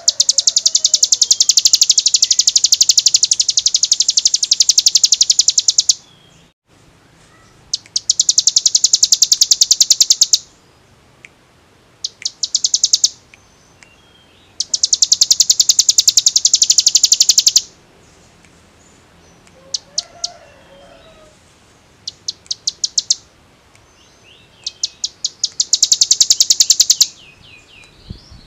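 Ciblek gunung (hill prinia) singing 'ngebren': very fast, drill-like trills of repeated high notes, in bouts lasting from about one to six seconds with short pauses and brief bursts between them.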